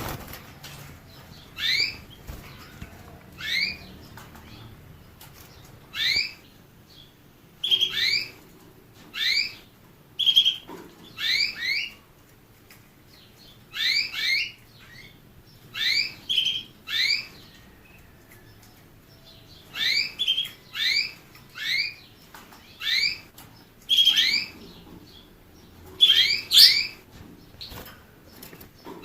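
A small finch calling: short, sharp rising chirps, one or two at a time, repeated every second or two with brief pauses between.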